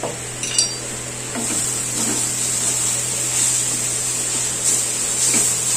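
Shredded vegetables sizzling in oil in a kadhai while a wooden spatula stirs and scrapes through them, with a few light clicks in the first second. The sizzle and stirring get louder about a second and a half in.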